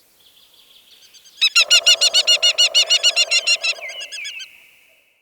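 Falcon's rapid kakking call: a fast series of sharp, harsh notes, about eight a second, starting loudly about a second and a half in and tailing off toward the end.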